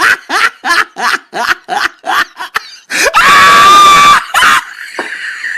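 Comic voice sound effect: a quick run of short snickering bursts, then a loud high scream held for about a second, then more short bursts.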